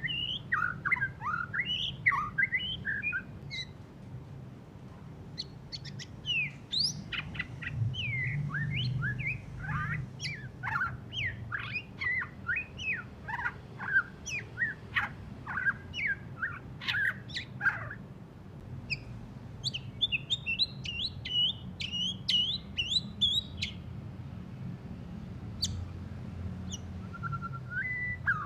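White-rumped shama singing in rapid, varied bursts of chirps and whistled glides, with a quicker run of high notes about twenty seconds in and short pauses between phrases. The bird is just out of moult and still chatters roughly.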